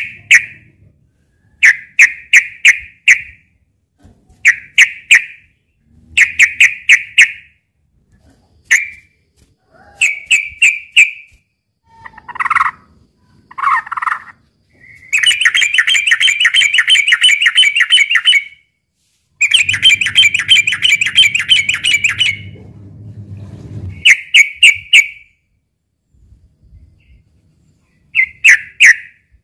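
Yellow-vented bulbuls (trucukan) singing: short bubbly, clicking phrases repeated every second or two, with two longer bouts of rapid chattering in the middle, the agitated fighting song used to provoke other males into singing.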